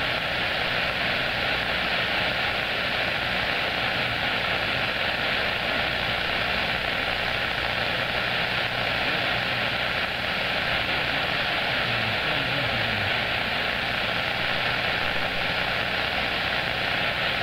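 CB radio receiver putting out steady static hiss on the skip channel between transmissions, with a faint low hum underneath.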